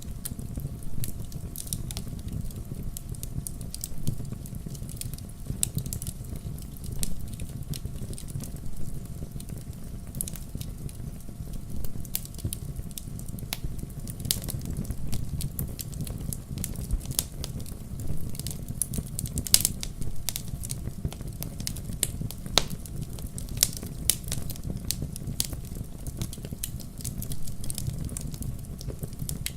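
Wood fire burning in a fireplace: a steady low rumble of flames under irregular crackles and sharper pops of burning logs.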